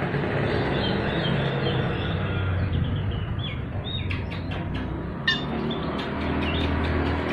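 Oriental magpie-robin (kacer) singing in harsh, rapid chirps and short sharp notes, with a quick run of clicking notes about four to five seconds in, over a steady low hum.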